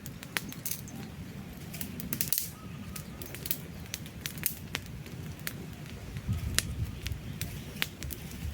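Wood campfire crackling, with frequent irregular sharp pops and snaps over a low steady rumble of the flames.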